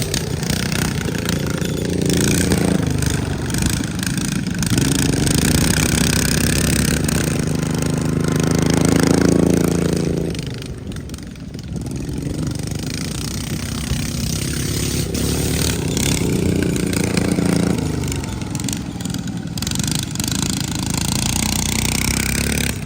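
Racing lawn mower engines running hard, their pitch rising and falling as they pass. The sound is loudest about nine seconds in, drops away briefly, then builds again.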